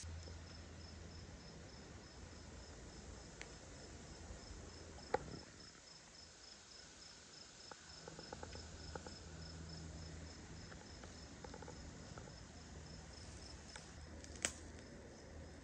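Faint cricket chirping: an even train of short high chirps, about three a second, over a low hum. A few sharp clicks sound on top, the loudest about five seconds in and near the end.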